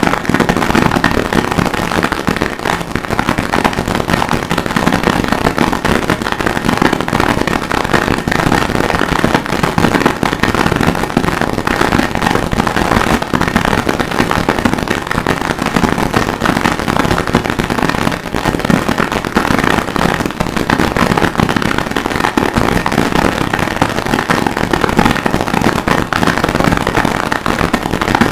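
Harsh noise music: an unbroken wall of distorted crackling noise at a steady high loudness, made from processed forge recordings.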